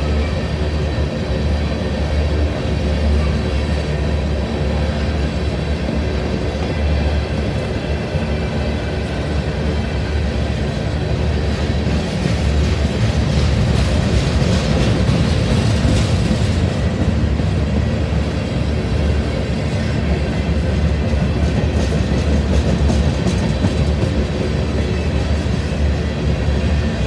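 A train passing close by: a steady rumble of wheels on the rails that grows louder about halfway through.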